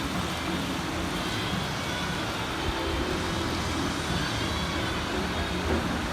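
Heavy rain falling steadily, an even hiss with a low steady hum beneath it.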